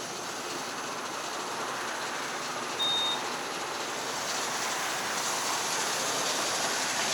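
A self-service fuel pump's payment terminal gives one short high beep about three seconds in, the kind that acknowledges a card or phone payment before the pump gets ready to dispense. Behind it runs a steady rushing background noise that slowly grows a little louder.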